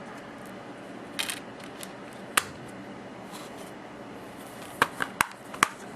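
Handling noise: a short rustle about a second in, a sharp click, then a quick run of four clicks near the end, over a steady low hiss.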